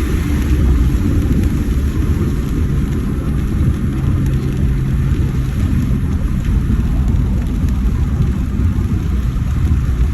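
Vehicle engine and road noise while driving: a steady low rumble with a faint engine hum.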